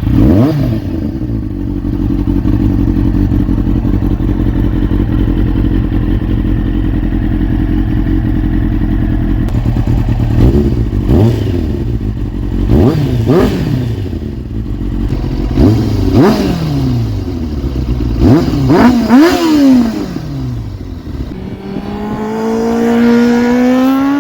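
2001 Kawasaki ZX-6R J2's inline-four engine, running through a short Scorpion stubby end can that is very loud. It fires up and idles steadily, then is blipped several times, with sharp rises and falls in revs. Near the end it revs up in one slow, steady climb before cutting off.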